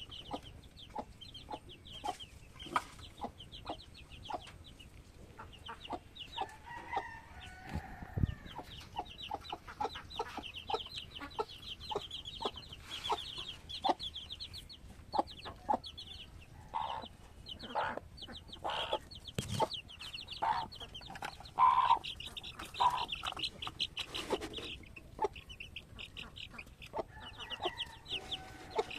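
Young chickens peeping continuously in rapid, short, high notes, with some lower clucking calls mixed in. Many sharp taps and clicks run through it.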